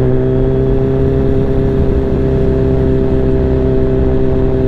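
Kawasaki Z1000 inline-four engine running at a steady, even pitch at low road speed, just after easing off the throttle to slow down.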